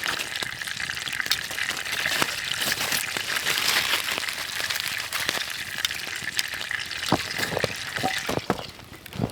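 Food sizzling as it fries over a campfire: a steady hiss with scattered pops and crackles, easing off near the end.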